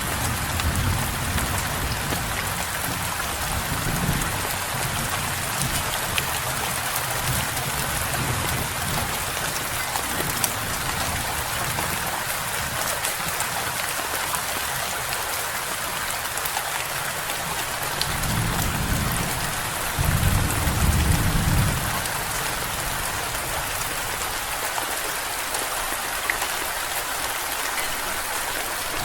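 Steady rain falling, with low rumbles of thunder through the first ten seconds or so and a louder rumble about twenty seconds in.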